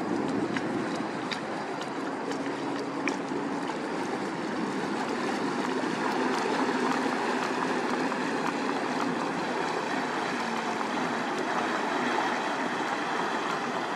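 Steady rushing wash of river water moving against a pier, with a faint low hum through the middle.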